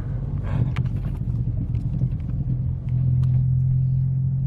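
Car engine running at low revs, uneven at first and settling into a steady idle about three seconds in, with scattered light clicks.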